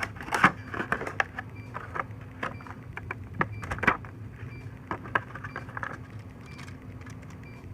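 Irregular clicks and crackles of stiff plastic packaging being handled as the model is freed from its cut plastic stand, over a steady low hum.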